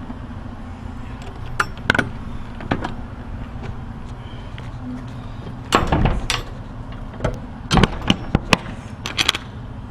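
Metal clanks and knocks from a semi-trailer's rear swing doors being shut and latched, the loudest about six seconds in, over the steady low hum of an idling truck engine.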